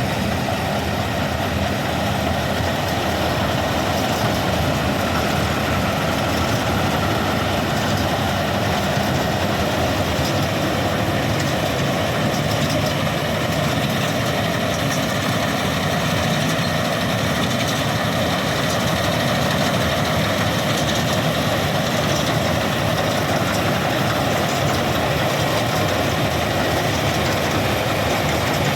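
Diesel engine of heavy farm machinery running steadily, with an even, unbroken drone.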